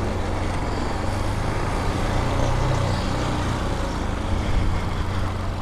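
Vitacci Raven 250 dirt bike's air-cooled single-cylinder engine running steadily after being kickstarted, its low hum swelling slightly midway.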